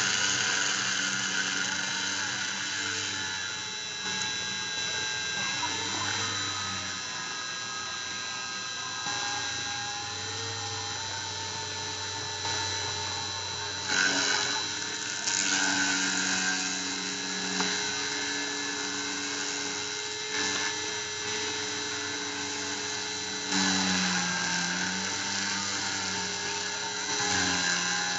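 Dremel rotary tool spinning with a steady high whine as a CNC mill cuts acrylic, while the machine's axis motors hum at lower pitches that jump to a new note every few seconds as the cutting moves change direction and speed.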